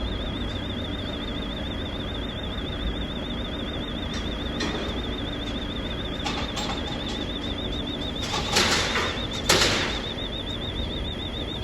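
Car transporter lorry's engine idling with a steady low rumble, under a faint high tone that wavers up and down. There are a few light knocks, then two short loud hisses near the end.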